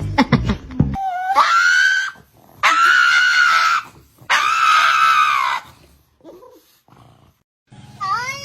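An animal's long, high-pitched screaming calls: three held calls in a row, the first sliding up into its note, then a fourth call that rises and falls near the end.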